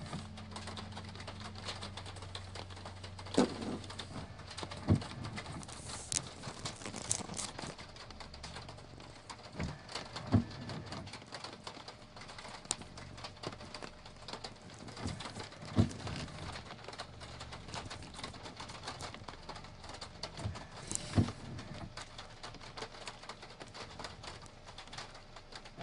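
Steady hiss of rain with irregular soft knocks and drips scattered through it, spaced a second to several seconds apart. A low hum stops about two seconds in.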